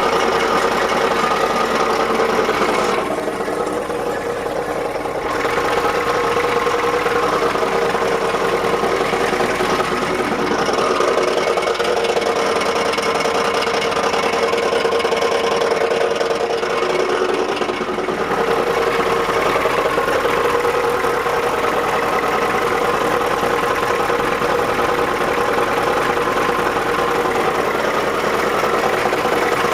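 1987 Ford F-250's 7.3-litre IDI diesel V8 idling with an odd grinding noise, worst at idle and gone by about 1500 rpm. The cause is unknown; the owner suspects pushrods wearing holes in the rocker arms. The sound dips a little for a couple of seconds about three seconds in.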